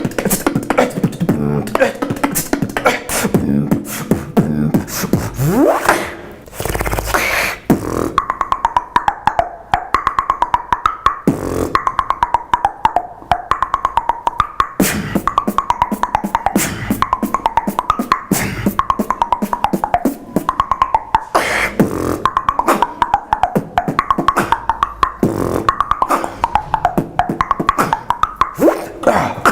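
Solo beatboxing: a mix of mouth percussion and vocal effects with rising pitch slides in the first several seconds. After about eight seconds it settles into very fast, even clicks under a wavering high hummed melody.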